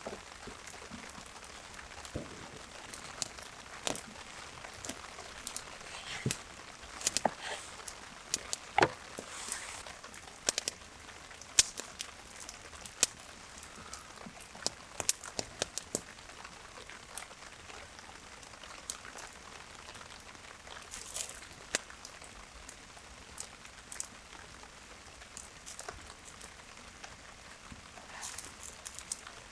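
Rain dripping and pattering on surfaces: irregular sharp drops and ticks, some loud, over a faint steady hiss of rainfall.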